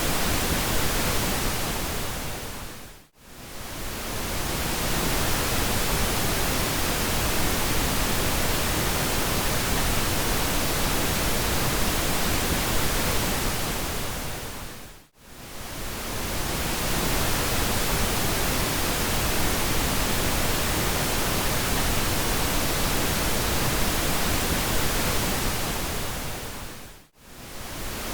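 Pink noise: a steady, even hiss across the whole range, fuller in the low end than white noise. It fades briefly down to near silence and swells back about every 12 seconds: about three seconds in, around the middle, and just before the end.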